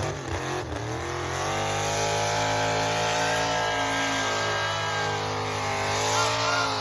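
Modified two-wheel-drive truck's engine revving up, then held at high revs under load for several seconds, dipping slightly and climbing again near the end.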